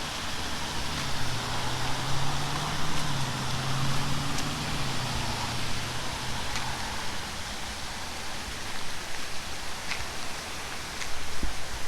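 Steady hissing background noise outdoors, with a low hum that fades out after about seven seconds and a few faint clicks.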